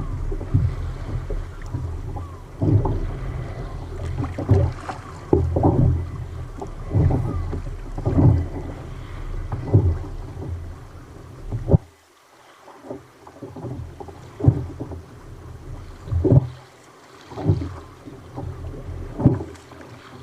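Sea kayak on rough water: splashes of water against the hull or paddle come again and again, about every second or two, with wind buffeting the microphone. The wind rumble cuts out about two-thirds of the way through, leaving the splashes quieter.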